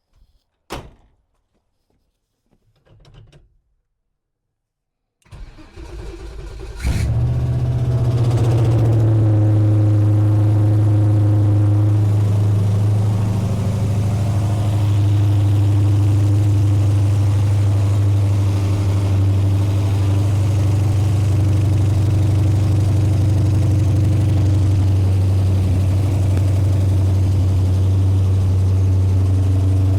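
A 7.0-litre (427 ci) LS V8 with individual throttle bodies is cranked by the starter for about two seconds, catches and fires, then settles into a steady idle. This is its first start after fresh CNC cylinder heads were fitted. There is a single click about a second in.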